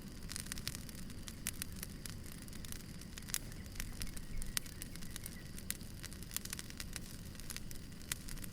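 Wood fire crackling: frequent irregular sharp pops and snaps over a low, steady rumble.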